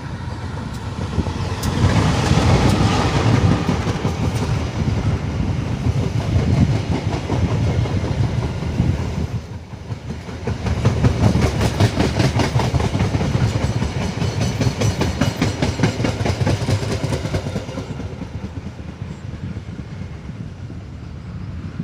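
Train running past, its wheels clacking rapidly over the rail joints. The noise builds about two seconds in, dips briefly near the middle, then fades over the last few seconds.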